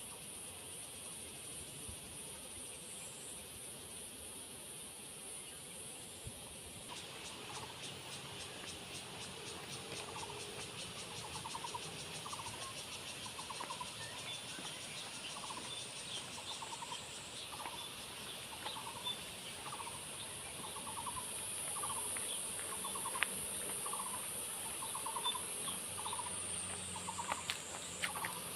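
Forest insects droning in a steady high-pitched chorus. About seven seconds in, a fast pulsing insect layer joins, along with a short chirping call that repeats roughly once a second.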